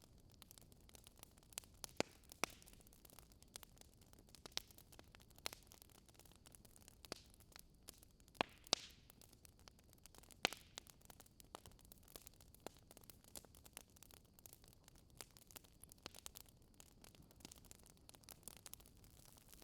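Wood fire crackling in a fireplace: irregular sharp pops and snaps, a handful louder than the rest, over a faint steady hiss.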